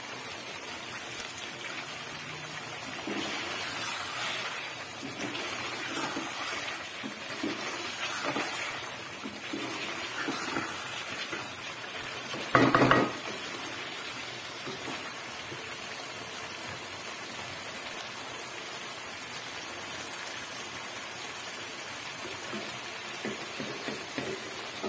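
Chicken karahi gravy sizzling steadily in a metal pan while a wooden spatula stirs and scrapes it, with one short, loud clatter about halfway through.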